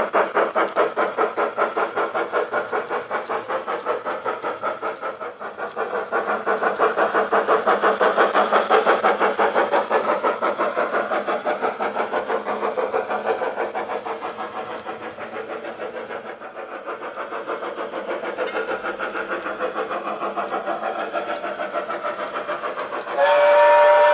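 Model steam locomotive's DCC sound decoder playing rapid, steady steam chuffing through its small onboard speaker, the chuffs swelling and fading in loudness. About 23 seconds in, a steady multi-tone steam whistle starts.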